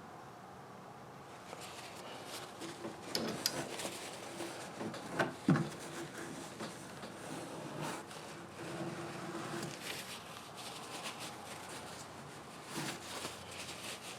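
Light handling noises of hand work on plastic parts: scattered clicks, knocks and rubbing, with a few sharper knocks between about three and five and a half seconds in.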